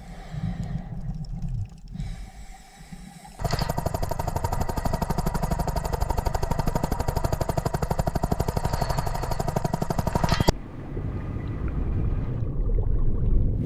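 Helicopter rotor chopping in a fast, even pulse that cuts in suddenly about three seconds in and stops abruptly after about seven seconds, over a low rumble.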